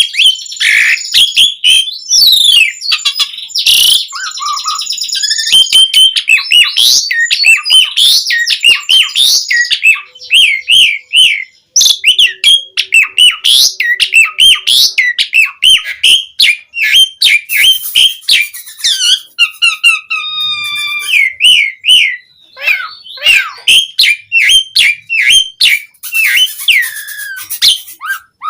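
Asian pied starling (jalak suren) singing in full song: a fast, varied stream of whistled glides, chirps and rattling notes, with only brief breaks.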